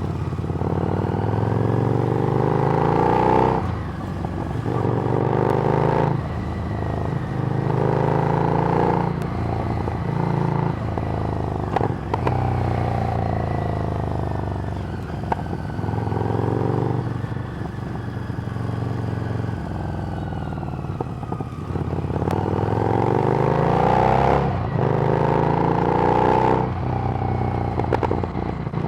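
Harley-Davidson Street Rod's V-twin engine through a Screamin' Eagle exhaust, ridden under way. The engine note rises in pitch again and again, with short breaks between the rises where gears are changed, and eases off for a while in the middle before pulling up through the gears once more.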